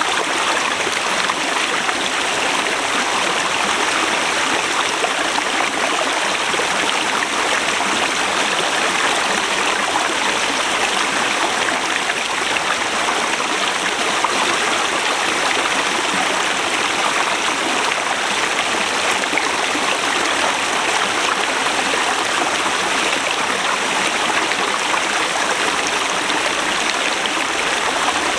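Forest river rushing steadily over rocks: a constant, even flow with no breaks.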